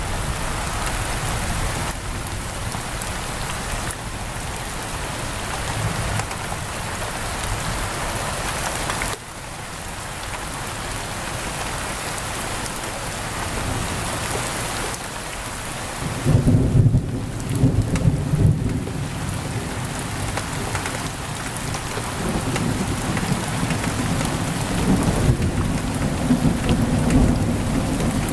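Steady heavy rain pattering on a window, with thunder rumbling in low, rolling swells from a little past halfway through.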